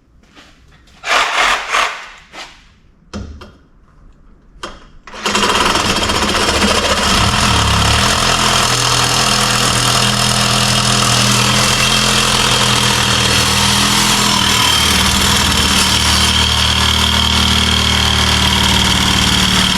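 A few metal clanks, then a motorized shop tool starts about five seconds in and runs loudly and steadily, its low hum shifting in pitch a couple of times.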